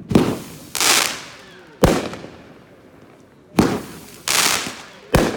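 Consumer fireworks going off in a string: four sharp bangs roughly every one and a half to two seconds. Two of them are followed by a longer hissing crackle.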